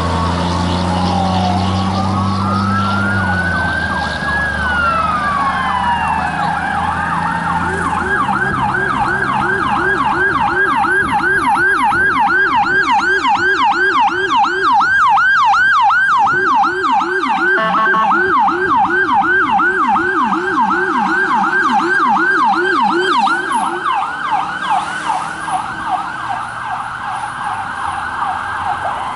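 Electronic sirens of a fire engine and an ambulance responding on a call. At first a slow rising-and-falling wail runs over the truck's low engine note. About a quarter of the way in it switches to a rapid yelp, two sirens sweeping at different pitches, which grows weaker near the end.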